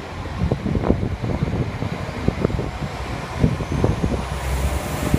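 Regional diesel multiple unit pulling away past the platform: engine running, with many irregular knocks from wheels and couplings over the track. The engine hum and a hiss grow louder near the end as it picks up.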